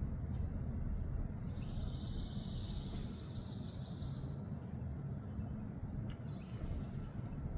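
A songbird sings a rapid, even trill of repeated high notes lasting about two and a half seconds, over a steady low background rumble. A short single call follows about six seconds in.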